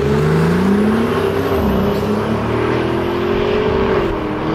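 Brabus-tuned Mercedes engine accelerating hard, loud. Its pitch climbs and drops back at gear changes, about a second and a half in and again about four seconds in.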